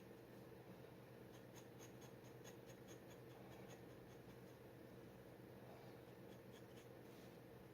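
Faint scratching of a steel G nib dip pen on paper: irregular short strokes and ticks, over a steady low hum.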